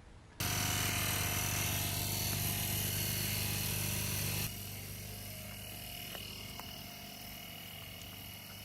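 A small motor running with a steady buzzing hum; it drops noticeably in level about four and a half seconds in and keeps running more quietly.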